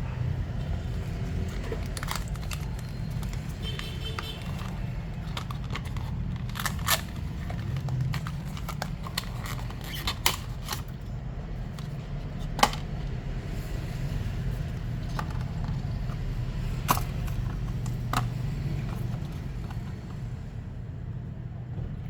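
Steady low background hum with scattered sharp clicks and taps, five louder ones among them, from small tools and parts being handled during a phone battery repair.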